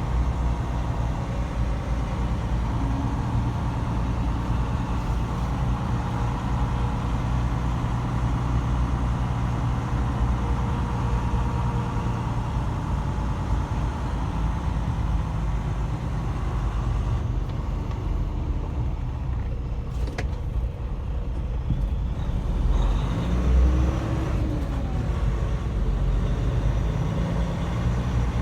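Semi truck's diesel engine running steadily as the truck drives, a continuous low drone with a small swell about two thirds of the way through.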